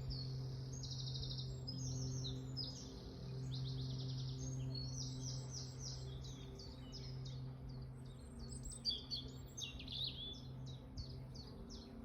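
Several songbirds singing at once in overlapping bursts of rapid chirps and trills. Underneath runs a steady low hum.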